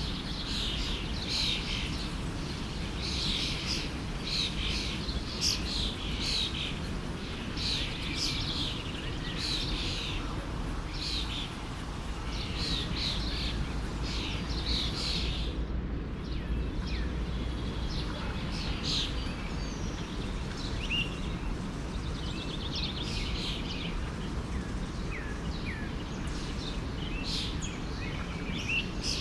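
Many songbirds chirping and trilling in quick, overlapping phrases, with a short lull about halfway, over the steady low rush of a flowing forest stream.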